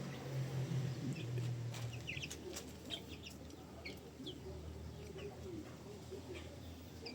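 Polish crested chickens clucking, with many short high peeps and chirps scattered through, thickest in the middle.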